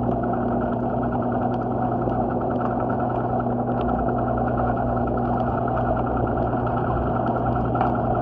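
A steady machine drone, like an engine idling, with a constant low hum and a fine, even pulsing that does not change.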